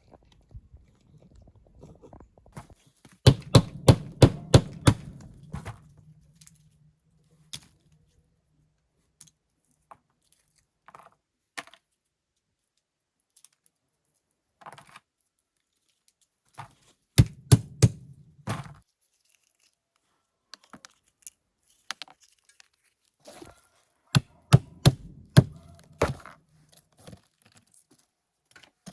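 Three bursts of rapid sharp knocks or chops, about five a second, a few seconds apart, with a low hum under each burst and scattered single clicks between.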